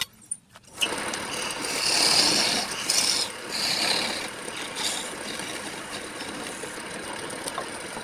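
Turning tool cutting into wood spinning on a lathe: a rasping, chattering scrape that starts suddenly about a second in, is loudest over the next few seconds, then runs on more evenly and stops just before the end.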